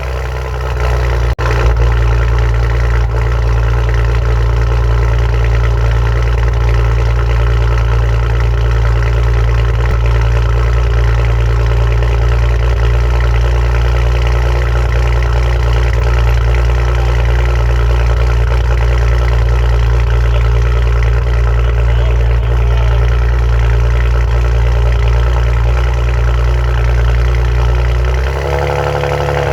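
Maserati with a newly installed aftermarket exhaust system idling steadily and loudly, with a deep, even exhaust note. Its pitch shifts briefly near the end.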